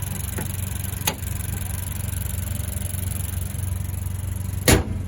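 Toyota Corolla 1.2-litre turbo four-cylinder idling steadily through an aftermarket Powerflow exhaust, a low, even hum. A sharp knock about a second in and a louder thump near the end.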